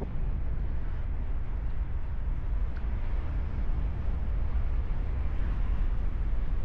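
Wind buffeting the camera microphone on a paraglider in flight: a steady, dense low rumble of rushing air.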